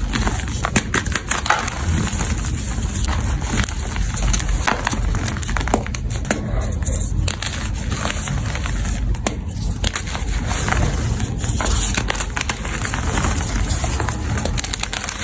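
Blocks of powdery gym chalk being crushed and crumbled, a dense run of irregular crunches and small crackles.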